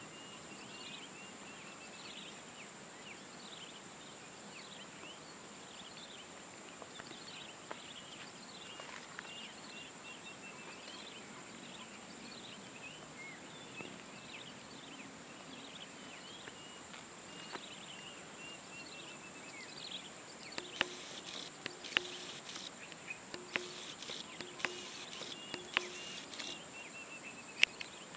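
A steady high insect drone with many short, high chirping calls over it. Scattered sharp clicks come in over the last third.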